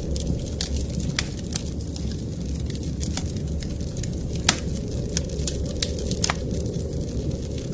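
Wood fire crackling in a fireplace: sharp, irregular pops and snaps over a steady low rumble, with a louder pop about four and a half seconds in.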